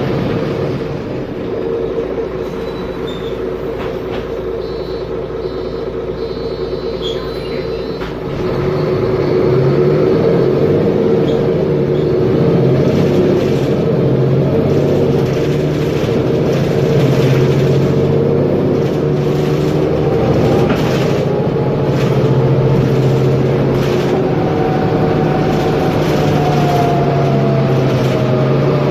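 Mercedes-Benz Conecto G articulated bus's OM457LA inline-six diesel engine running, quieter for the first several seconds, then louder and lower-pitched from about eight seconds in as the bus pulls under load, with a faint whine rising slowly near the end.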